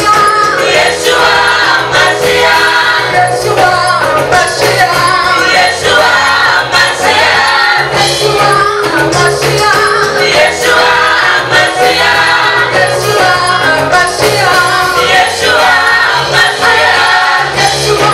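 A choir singing a gospel song over a band with a bass line and a steady beat.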